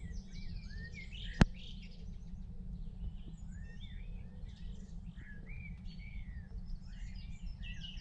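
Small garden birds chirping and twittering around feeders: many short, quick calls overlapping, over a steady low rumble. A single sharp click about a second and a half in is the loudest sound.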